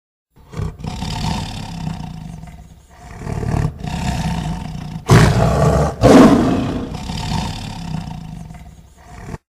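A big cat roaring and growling in a deep rumble, with its two loudest roars about halfway through.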